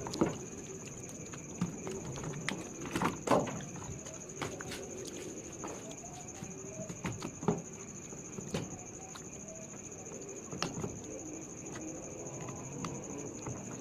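Scattered light clicks and knocks over a steady high-pitched whine.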